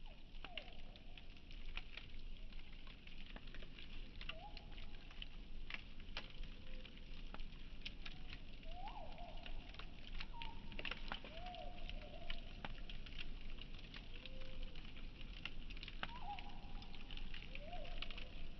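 Campfire crackling, with scattered sharp pops over a steady hiss. The sound is slowed down, which lowers it. A dozen or so short gliding tones, rising and falling, come and go over it.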